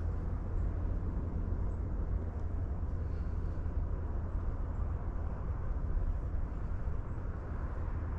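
Steady low outdoor rumble with a faint even hiss above it, and no distinct clicks or events.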